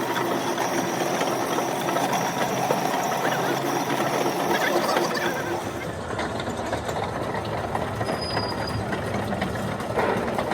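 Heavy machinery running with a dense, steady rattling clatter and a low rumble that grows stronger about halfway through.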